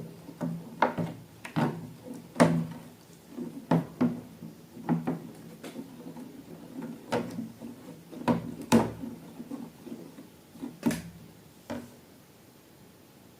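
Irregular short taps and clicks, about one a second, from objects and containers being handled up close.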